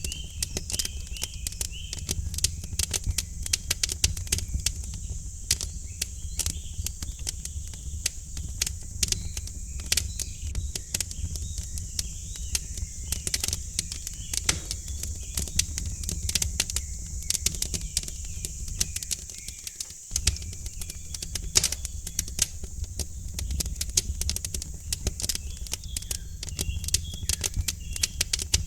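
Wood fire crackling in a fireplace: dense, irregular pops and snaps over a steady low rumble. Birds chirp softly near the start and again near the end.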